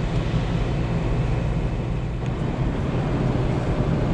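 Steady road noise inside a moving car: a low engine and tyre drone.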